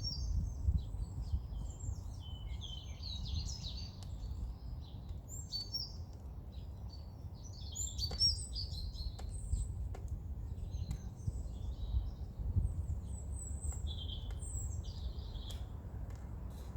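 Several songbirds singing and chirping, with short high-pitched phrases overlapping one another throughout, over a low steady rumble of background noise.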